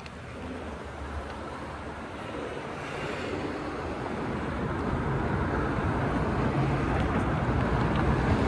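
Wind rushing over the microphone with road and tyre noise from a moving electric bike, steadily getting louder as the bike picks up speed.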